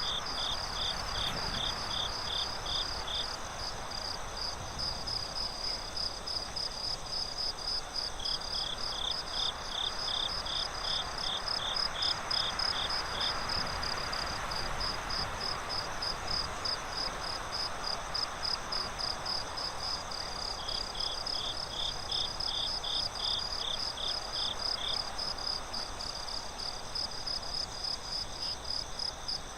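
Crickets chirping in a night chorus: one steady, even pulsing of high chirps, about two to three a second, with a lower chirp joining in short spells of several seconds, twice. A soft, even hiss sits underneath.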